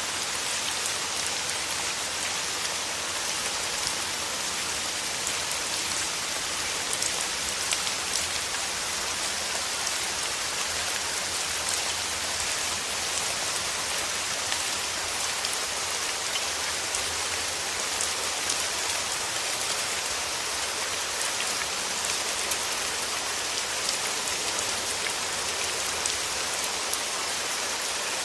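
Steady rain, with many individual drops ticking close by over an even hiss of rainfall.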